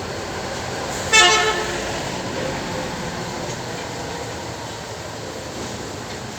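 A vehicle horn gives one short toot about a second in, over a steady background hum of noise.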